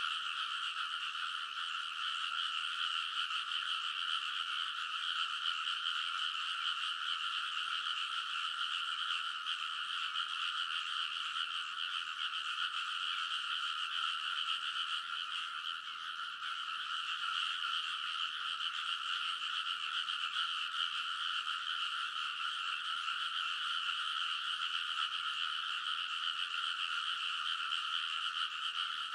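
A dense chorus of many frogs calling together, a continuous, noisy din with no break.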